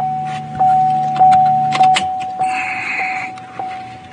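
A car's electronic warning chime repeating steadily, with short pulses about every 0.6 s over a held tone. A low hum underneath stops about two seconds in.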